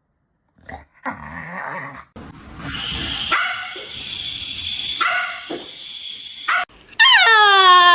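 A dog making rough, grumbling vocal noises, then, about seven seconds in, a loud high-pitched whine that falls in pitch.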